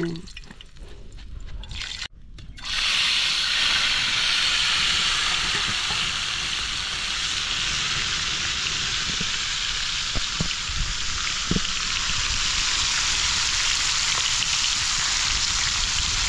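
Food sizzling in a pan over a fire: a steady hiss that starts suddenly about two and a half seconds in and keeps on.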